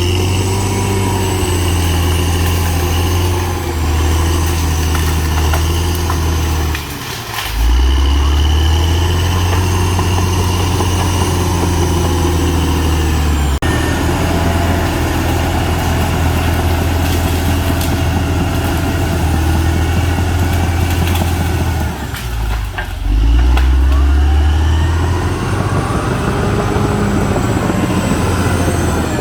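Caterpillar D6R XL bulldozer's diesel engine running with a steady low drone and high whining tones, dipping briefly about seven seconds in and again a little past twenty seconds, then picking back up.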